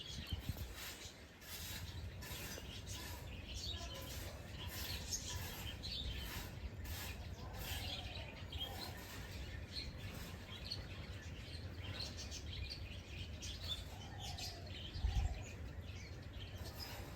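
Several small birds chirping and twittering over a steady low rumble, with a brief low thump about fifteen seconds in.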